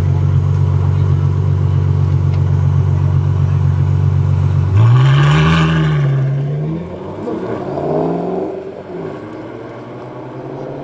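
Ferrari F12 Berlinetta's 6.3-litre V12 with a Novitec Rosso exhaust, running loud and steady. About five seconds in it bursts into hard acceleration: the pitch climbs, then drops and fades as the car pulls away.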